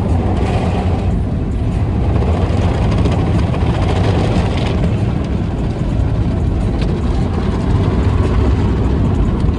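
Steady low rumble of a car heard from inside the cabin: engine and road noise with no sudden events.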